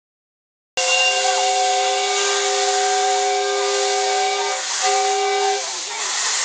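Miniature steam locomotive's whistle sounding one long blast of several steady notes at once, with a brief break about four seconds in, over a loud hiss of steam that carries on after the whistle stops. It starts abruptly after about a second of silence.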